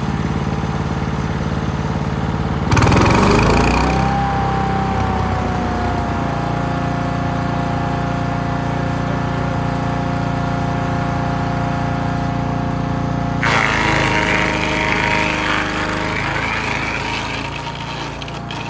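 Wood chipper driven by a 212cc four-stroke OHV gas engine, running at speed with a steady whine. Branches fed into the side chute are chipped twice, about three seconds in and again around fourteen seconds, each a loud burst of noise that dies away.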